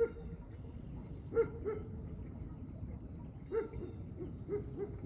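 A dog barking: about nine short barks in ones and twos, each falling in pitch.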